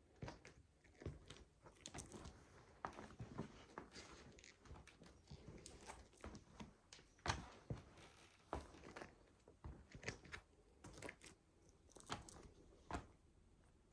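A toy model truck being crushed under a sneaker: irregular crunching, cracking and crackling, with a few sharper cracks standing out, the clearest about seven seconds in and again near the end.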